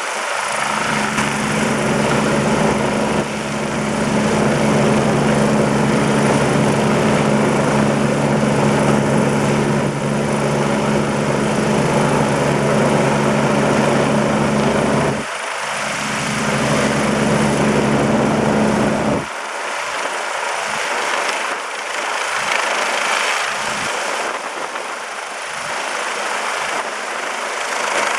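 Rescue helicopter running close by: a steady engine hum under a loud rushing of rotor noise. The low hum breaks off briefly about fifteen seconds in, then drops out abruptly after nineteen seconds, leaving only the rushing noise.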